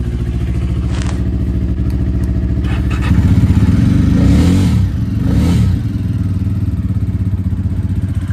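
Jawa motorcycle engine idling steadily, then revved twice with short throttle blips about three and five seconds in, dropping back to idle. A couple of light clicks sound over the idle.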